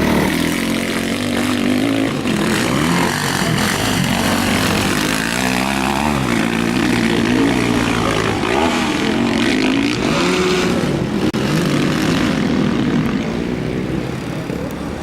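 Several motocross motorcycles racing, their engines revving up and down and overlapping as the bikes ride the track, easing off slightly near the end.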